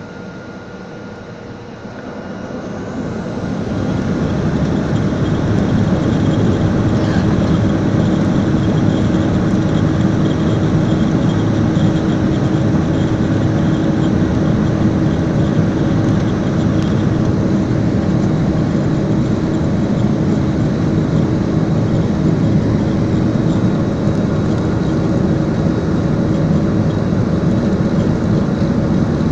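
Airliner engines spooling up to takeoff power: the noise swells over a couple of seconds a few seconds in, then holds as a loud, steady roar with a steady hum through the takeoff run.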